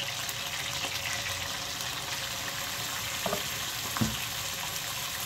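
Onions and ginger-garlic paste sizzling in hot oil in an aluminium kadai, a steady frying hiss, with a couple of light knocks a little past three and four seconds in.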